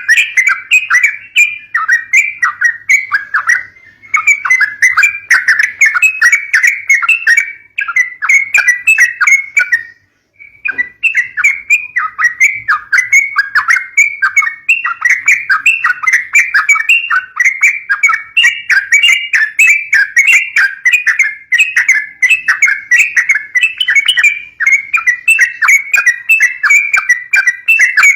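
Yellow-vented bulbul (trucukan) chattering in a fast, unbroken run of chirps, the fighting call kept to lure young bulbuls, with a brief pause about ten seconds in.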